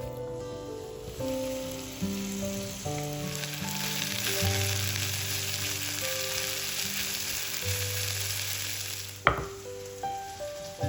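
Food frying in a pan, a steady sizzle that builds about a second in and cuts off with a single sharp click near the end.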